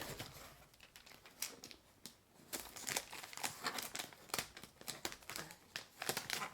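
Packing material crinkling as it is handled, in a run of irregular crackles that thin out for a moment about two seconds in and then grow dense again.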